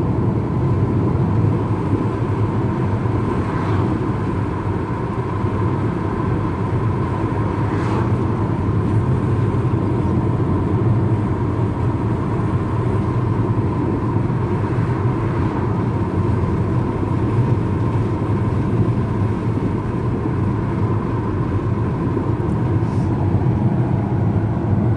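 Steady road and engine rumble of a moving car heard from inside the cabin, with a faint steady whine.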